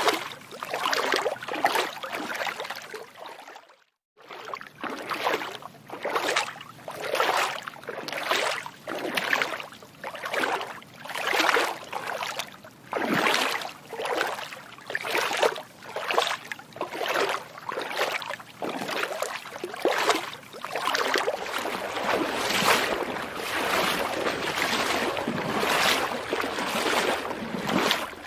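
Feet wading through water, a splashing swish with each step, a little more than one step a second. The sound cuts out briefly about four seconds in, and the steps run together into steadier splashing near the end.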